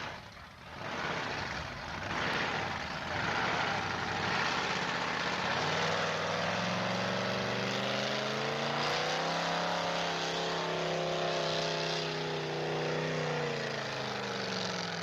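Pulling truck's engine running at high revs under load, rough at first, then a steady drone whose pitch climbs slightly and then slowly sags before it thins out near the end.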